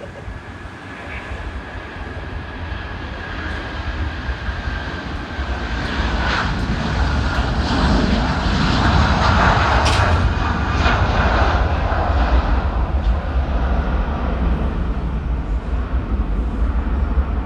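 Jet airliner's engines, a broad roar that builds steadily over the first nine seconds or so as the aircraft approaches, then stays loud.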